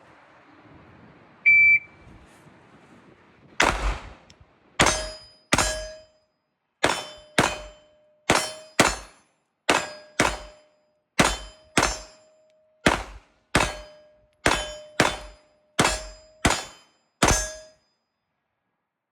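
A shot timer beeps once, and about two seconds later a handgun fires about eighteen shots, mostly in quick pairs, drawn from concealment. Many shots are followed by the ring of a hit steel target.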